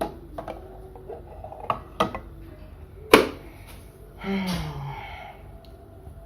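Clicks and knocks from handling a USB mini fridge and the glass inside it. The sharpest knock comes about three seconds in, followed about a second later by a short breathy sound that falls in pitch.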